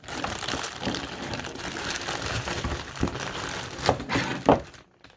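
Plastic packaging crinkling and rustling as a floodlight is unwrapped by hand, with two sharp knocks about four seconds in.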